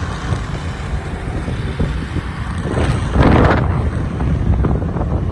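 Wind buffeting the microphone over the rumble of a moving motorbike, with a louder rush about three seconds in.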